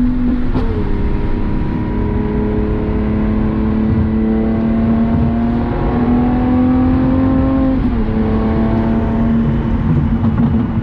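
Lamborghini Aventador SVJ's V12 engine with a Balboni exhaust running under load as the car drives. Its pitch rises slowly, then drops suddenly about half a second in and again about eight seconds in, as the single-clutch gearbox shifts up.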